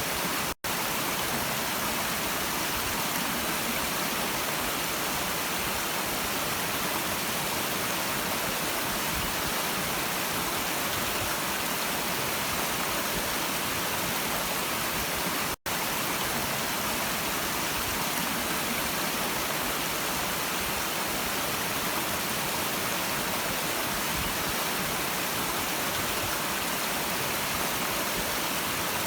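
Steady rushing of a stream, even and unbroken except for two very brief cuts to silence, one about half a second in and one about halfway through, as where a looped recording restarts.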